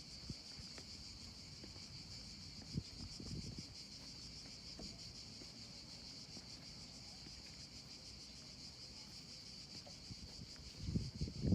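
Steady high-pitched chorus of insects with a fine, rapid pulse, with a few soft low thumps of footsteps on the ground.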